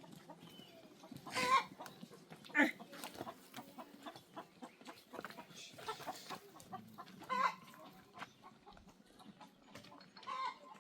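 Farm animals calling at a nomad camp: about five short calls spaced a few seconds apart, the two loudest in the first three seconds, over many small clicks and knocks.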